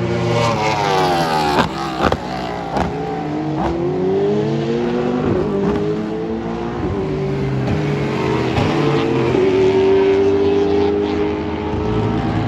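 Racing car engine accelerating hard and changing up through the gears, its pitch climbing and dropping sharply at each upshift, with several quick shifts in the first few seconds and then a longer climb.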